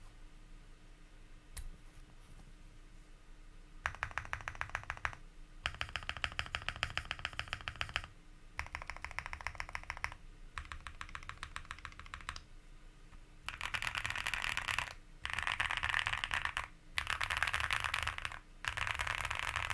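Momoka Zoo65 mechanical keyboard with lubed and filmed JWK Poseidon switches on an FR4 plate with full foam, being typed on. After a quiet start with a single click, it gives bursts of distinct keystrokes. In the second half it gives four faster, denser runs of keystrokes with short pauses between them.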